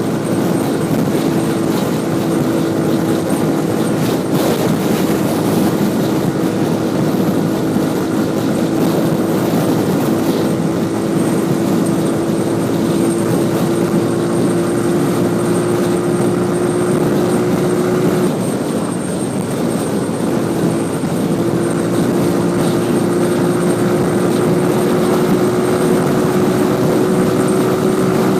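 Motorcycle engine running while riding, with rushing wind noise. The engine note climbs slowly, fades out for a couple of seconds about two-thirds of the way in, then comes back and climbs again.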